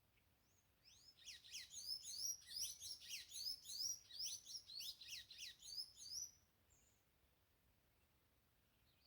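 A bird singing a fast run of high notes, each sweeping quickly downward in pitch, about four a second for some five seconds, then stopping.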